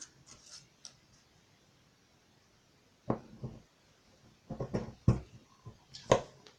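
A handful of short clicks and knocks as holes are punched through a sheet of shrink plastic on a cutting board. The first few seconds are nearly silent, then the clicks come in small clusters.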